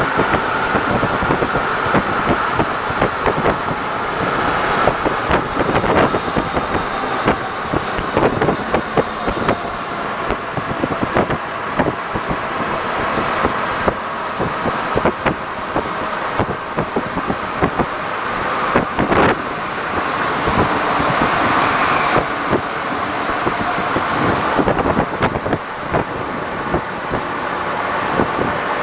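Santiago Metro NS-74 rubber-tyred train running along the line: a steady rolling noise with frequent clicks and knocks, the sharpest about nineteen seconds in.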